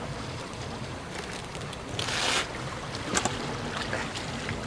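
Small fishing boat's motor running steadily at trolling speed, with water and wind noise. There is a short rush of noise about two seconds in and a few clicks about a second later.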